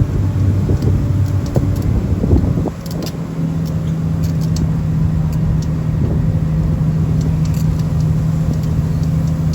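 Tour vehicle's engine running with a steady low hum as it drives, settling into an even tone about three seconds in.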